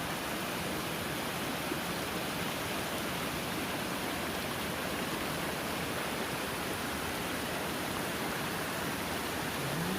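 Steady, unbroken rush of water from a hill waterfall.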